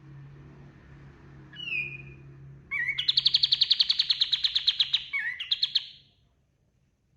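Kapas tembak singing: a short whistled note about a second and a half in, then a loud rapid trill of about ten notes a second lasting some three seconds, closing with a brief phrase just before it stops.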